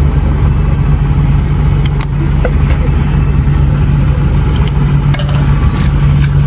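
Steady low engine drone of a passenger vehicle under way, heard from inside the cabin, with a few light clicks and rattles.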